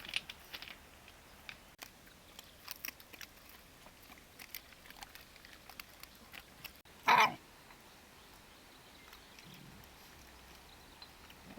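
A dog chewing and crunching its food in small scattered clicks, with one short loud call from the animal a little after seven seconds in.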